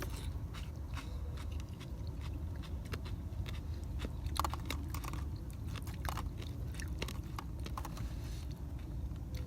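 Close-up chewing and biting of food, with many small irregular crunchy clicks over a low steady rumble.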